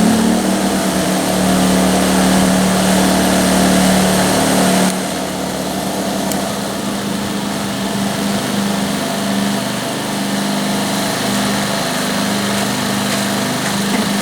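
Two Champion 2000-watt inverter generators running together in parallel with a steady engine hum. About five seconds in the sound drops suddenly and settles quieter as econo mode throttles the engines down to match the light load.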